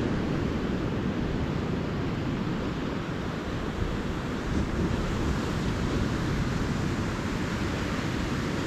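Ocean surf: small waves breaking and washing up the beach in a steady, unbroken rush.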